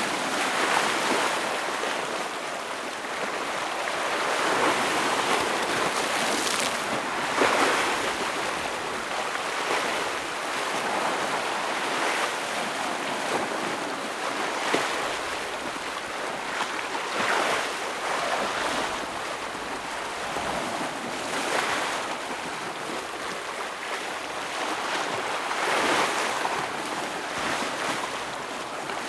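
Ocean waves breaking against rocks, a continuous wash of surf that swells and recedes every few seconds with occasional sharper splashes.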